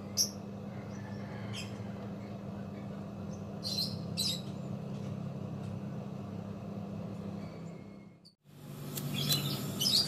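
Small birds chirping now and then over a steady low hum; the sound cuts out for a moment near the end.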